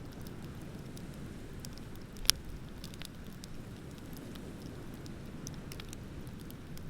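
Wood bonfire crackling with scattered small snaps and one loud pop a little over two seconds in, over a steady low rumble of ocean surf.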